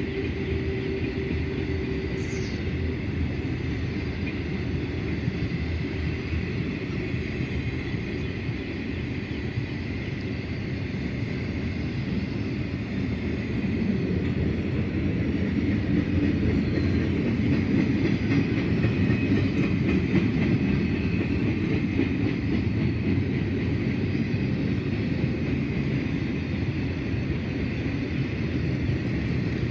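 Freight train cars rolling past on the rails: a steady rumble and rattle of wheels, with a thin high ring held throughout. It grows louder about halfway through.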